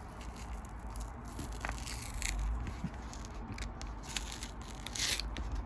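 Foil wrapper of a Pokémon booster pack crinkling and crackling as it is handled and torn at, with scattered small crackles and a couple of brief louder rasps.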